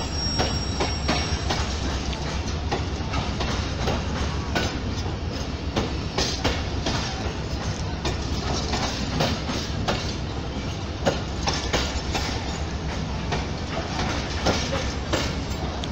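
Pakistan Railways passenger coaches rolling past along the platform on arrival, wheels clicking over the rail joints over a steady rumble. A thin high squeal stops about a second and a half in.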